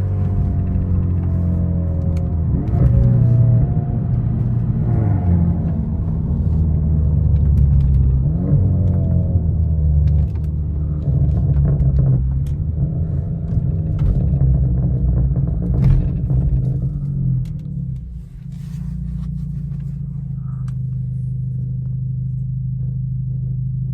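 Genesis G70's turbocharged 2.0-litre four-cylinder, fitted with a bigger turbo, accelerating through the gears: the engine pitch climbs and drops back at each shift several times. About 18 seconds in it settles to a steady low drone.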